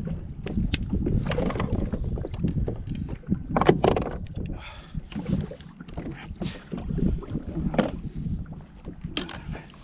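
Wind buffeting the microphone on a fishing kayak at sea, with water sloshing against the hull and scattered short knocks, the loudest about three and a half seconds in.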